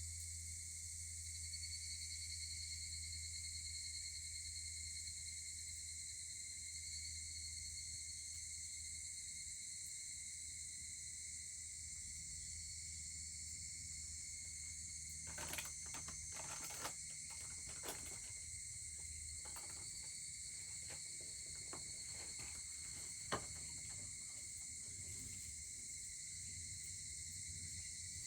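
Steady chorus of crickets and other insects with a low hum underneath; from about halfway the wood fire starts crackling, with scattered sharp pops, one louder pop near the end.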